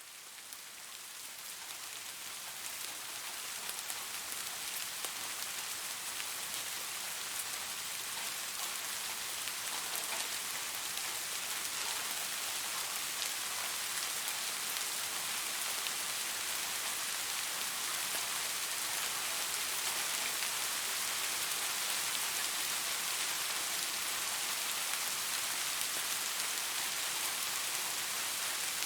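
Steady rain falling on leaves: an even hiss with scattered drop ticks. It fades in over the first few seconds, then holds steady.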